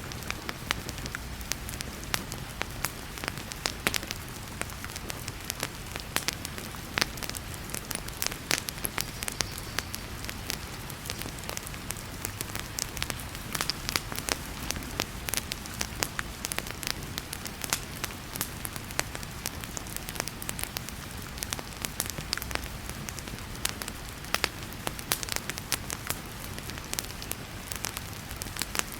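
Fireplace crackling with frequent sharp pops, over a steady hiss of heavy rain.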